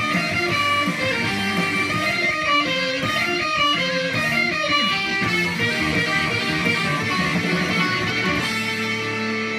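Electric guitar solo in a rockabilly-punk style: quick runs of single notes, settling into held notes near the end.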